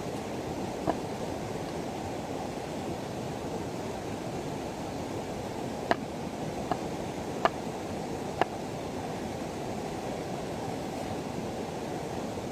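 Steady rush of flowing river water, with a few short sharp clicks or knocks: one about a second in and four more in quick succession a little past the middle.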